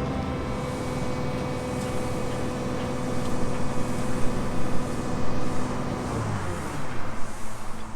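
A motor running with a steady hum, which slows and drops in pitch about six seconds in.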